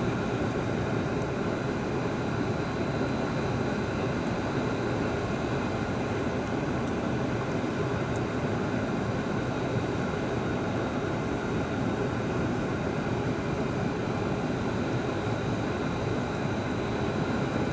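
A steady mechanical drone with a faint, constant high whine on top, unchanging throughout.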